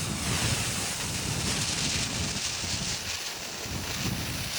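Wind buffeting the microphone under a steady hiss from a lit Black Cat sawdust smoke ball burning.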